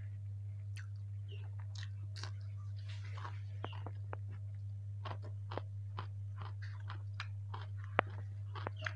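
Close-up chewing and crunching of kerupuk crackers and fried rice: a scatter of short, crisp crackles and mouth sounds, over a steady low hum.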